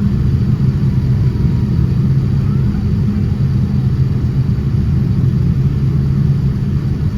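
Steady low rumble of a Boeing 787-10's jet engines and airflow, heard inside the passenger cabin.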